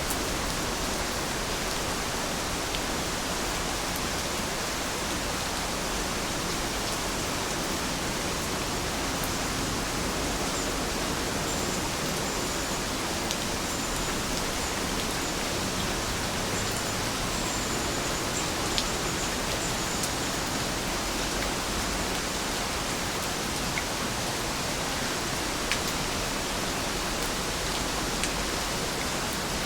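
Steady rain falling, an even hiss with a few sharp ticks of drops.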